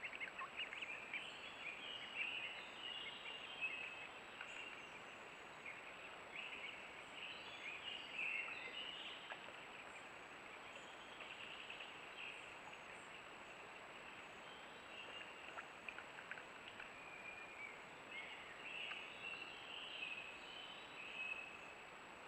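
Songbirds singing faintly in short, repeated high chirping phrases over a steady outdoor hiss.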